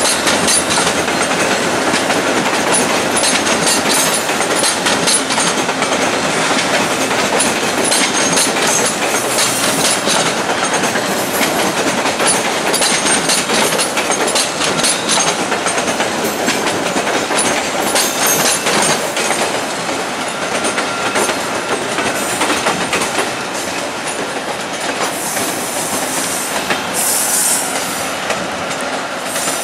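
VIA Rail LRC passenger cars rolling slowly past, their wheels clicking and clattering over track joints and switches. High-pitched wheel squeal comes in now and then, around ten seconds in and again near the end.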